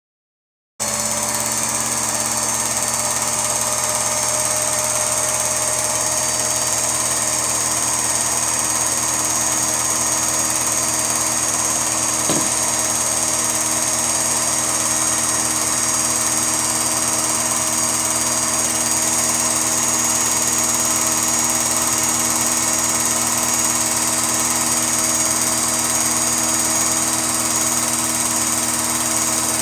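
A steady mechanical hum with a high whine starts abruptly under a second in and runs on unchanged, with one brief click about twelve seconds in.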